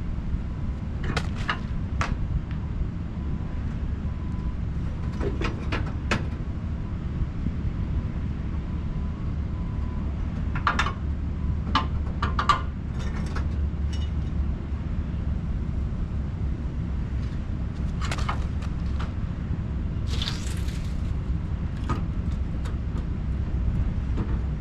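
Steady low rumble of a semi truck's diesel engine running, with scattered metallic clicks and knocks and a brief hiss about twenty seconds in.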